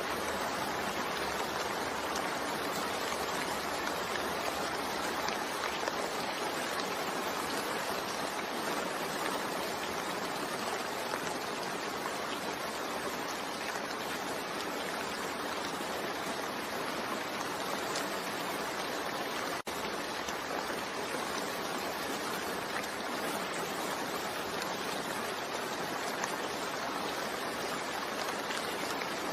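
Steady rain falling, an even hiss with no individual drops standing out, broken only by a momentary dip about two-thirds of the way through.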